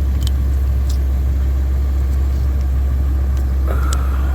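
A steady low drone runs throughout, with a few light clicks as an ignition coil is unplugged and moved to another cylinder.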